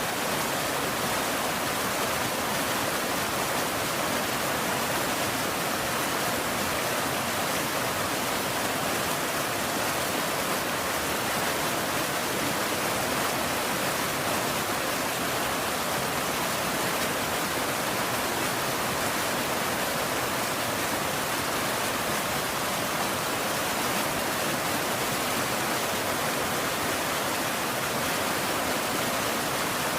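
Steady rain, a continuous even hiss with no single drops or thunder standing out.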